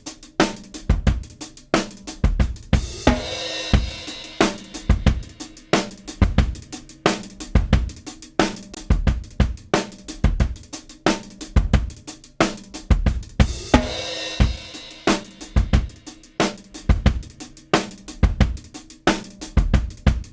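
Recorded drum kit playing a steady groove of kick, snare and hi-hat, with a cymbal crash about three seconds in and again about thirteen seconds in, heard through a dbx 160-style compressor for a hardware-versus-plugin comparison.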